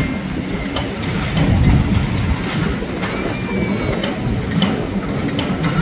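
Passenger coaches rolling past on the rails: a steady low rumble with a few sharp clicks from the wheels, and a faint brief wheel squeal near the middle.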